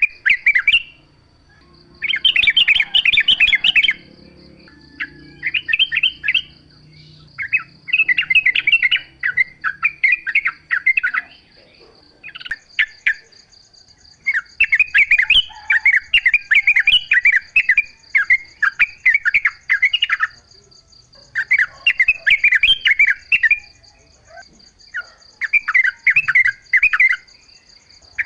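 Yellow-vented bulbul (trucukan) singing: repeated bursts of rapid, chattering phrases, each one to three seconds long with short pauses between. A steady high-pitched whine runs behind it, and a second, higher one joins about halfway through.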